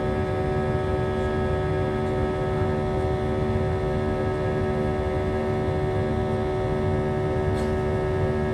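Airbus A319 jet engines heard inside the passenger cabin during departure: a steady drone of low rumble with several constant humming tones over it.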